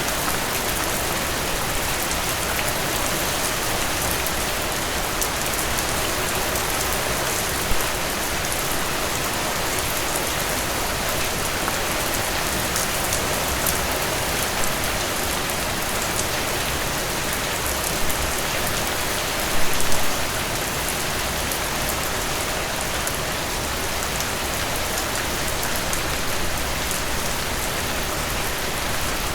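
Heavy rain falling steadily, an even dense hiss with many sharp, close drop hits. A few brief louder splashes stand out, one about eight seconds in and a short cluster around twenty seconds.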